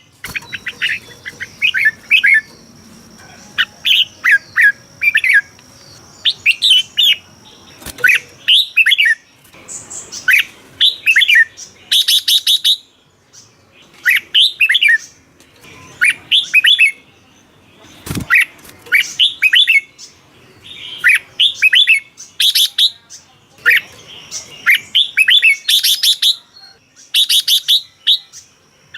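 Red-whiskered bulbul song: short, bubbly phrases of quick whistled notes, repeated every second or two with brief pauses between them.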